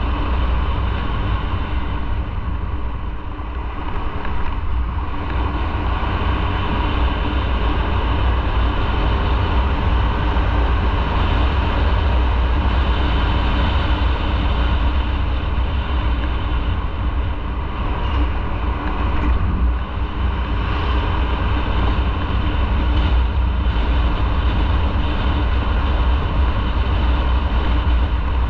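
Motorcycle running steadily on the road, its engine hum mixed with heavy wind rumble on the microphone.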